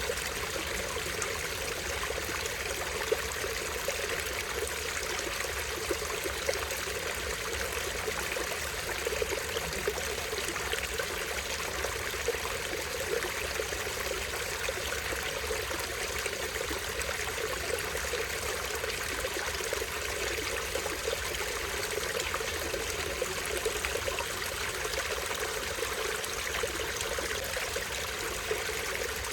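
Small stream flowing and trickling over rocks, a steady rush of water with small splashes now and then.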